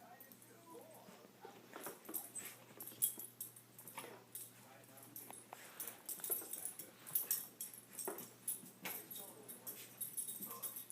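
Small dog whimpering with short high cries, among scattered clicks and rattles of the chinchilla's plastic exercise ball being pushed along the floor.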